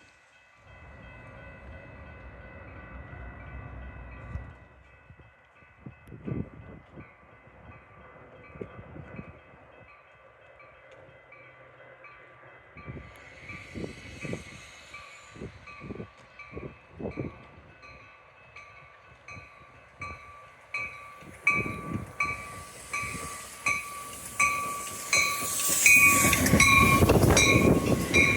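Grade-crossing warning bell ringing with an even, repeating ding, as a train approaches and comes past close by, growing loud in the last few seconds.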